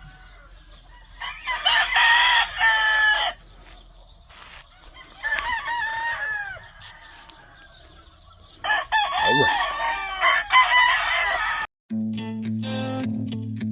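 Gamefowl rooster crowing, three loud crows a few seconds apart. Guitar music comes in near the end.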